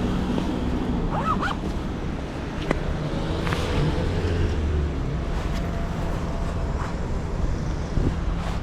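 Motorcycle engine running steadily under way, with road and wind noise on the microphone and scattered short clicks and rustles.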